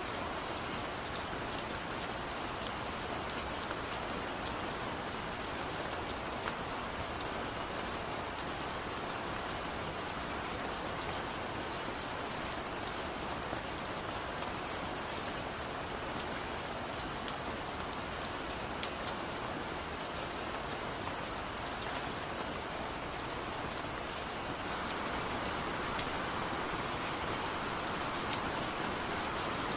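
Steady rain falling, an even hiss thick with small drop ticks. It grows a little heavier about 25 seconds in.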